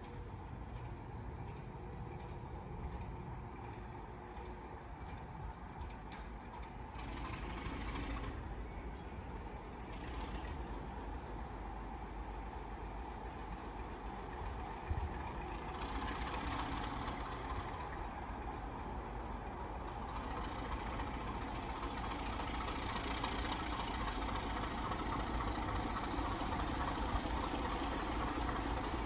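Diesel locomotive engine running, getting gradually louder, with brief spells of hiss mixed in.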